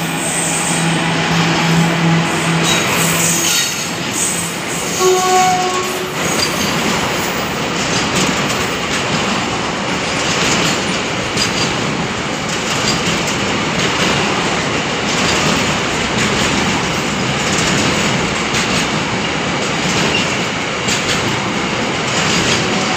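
A freight train of covered car-carrier wagons, hauled by a WAG-7 electric locomotive, passing through at speed. A steady low hum as the locomotive goes by fades after about three seconds, then comes the continuous rolling rumble and rattle of the wagon wheels on the rails.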